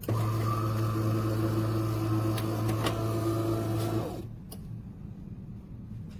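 De'Longhi Rivelia espresso machine running with a steady low buzzing hum and a few clicks for about four seconds, then cutting off abruptly.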